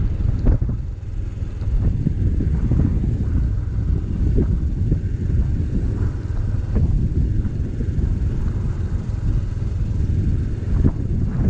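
A motorcycle riding along, a steady low rumble of engine and road noise.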